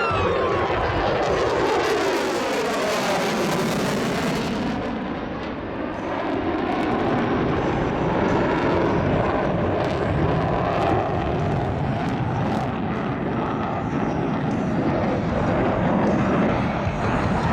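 F-22 Raptor jet with its twin F119 turbofan engines in flight: a whine that falls in pitch as the jet passes in the first couple of seconds, then a steady, loud jet roar.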